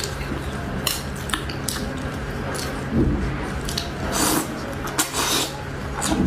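Eating at a table: irregular clicks and scrapes of utensils against a bowl or plate, with a few longer noisy smears of chewing or slurping, over a steady low hum.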